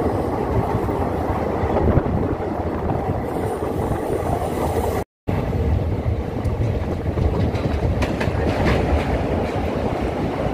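Train running across a steel truss river bridge, heard from aboard: a steady rumble and clatter of wheels on the rails. The sound drops out for a moment about halfway through.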